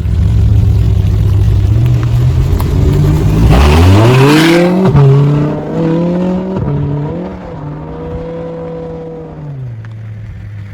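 Audi R8's naturally aspirated V10, through a loud custom exhaust, running at low revs and then accelerating hard under full throttle from about three and a half seconds in. The pitch climbs steeply, breaks sharply at quick dual-clutch upshifts around five and seven seconds in, and settles to a lower steady note near the end.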